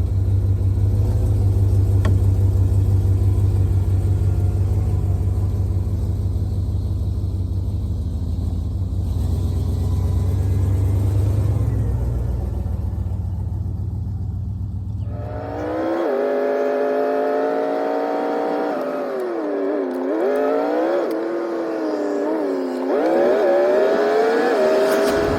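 Van driving: a steady, loud low rumble of engine and road. About two-thirds of the way through this cuts off abruptly into a whining engine note that rises and falls in pitch several times. The low rumble comes back right at the end.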